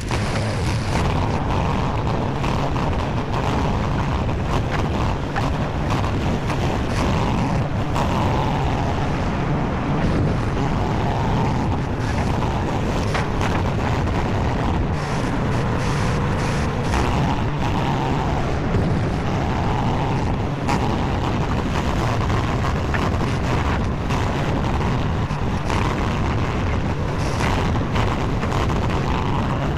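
SCL850 skid steer's engine running steadily under work, with a higher whine that swells and fades every couple of seconds and a few sharp knocks.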